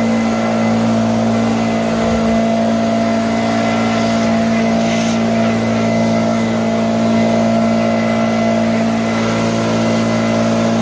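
Small gas engine of lawn equipment running steadily at constant throttle, with a brief swish about five seconds in.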